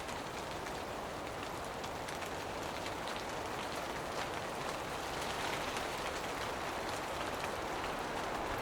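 Forest rain shower: a steady hiss of rain with many small drops pattering, growing slightly louder toward the end.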